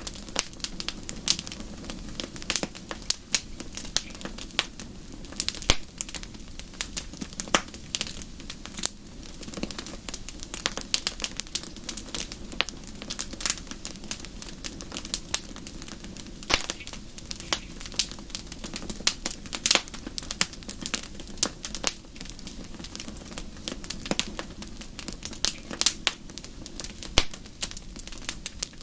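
Fireplace fire crackling: irregular sharp pops and snaps, several a second, over a steady low hiss of the burning fire.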